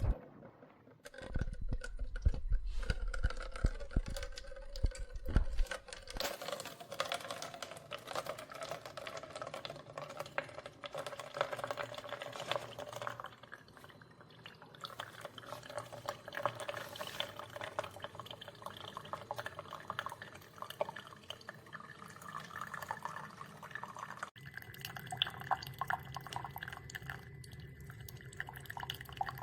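Horavie Mini single-serve coffee maker brewing: a low hum for the first six seconds or so, then coffee streaming and dripping into a cup.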